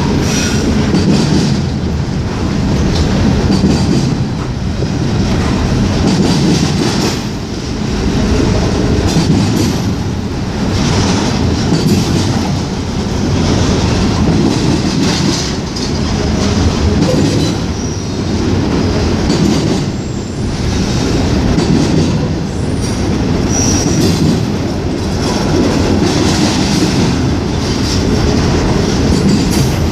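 Freight train cars rolling past on the rails: a steady loud rumble with wheels clicking over the rail joints and a few brief high wheel squeals.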